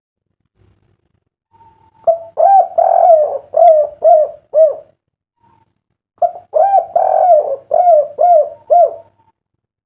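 Spotted dove (derkuku) cooing its song twice: each phrase is a longer coo followed by three short, clipped 'kuk' notes, the 'kuk 3' song type prized by dove keepers.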